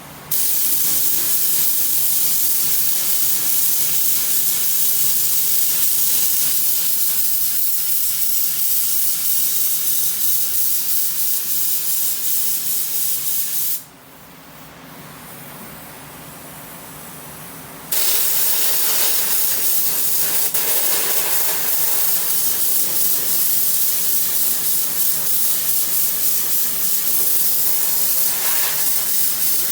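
Compressed-air mini touch-up spray gun spraying paint, a steady loud hiss that starts abruptly, cuts off suddenly about halfway through as the trigger is released, and starts again a few seconds later.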